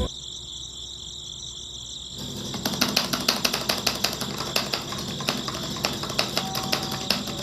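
Small motor running with a steady high whine; about two seconds in, rapid irregular clicking and rattling joins it, as from small gears or a grinder on a miniature tractor flour mill model.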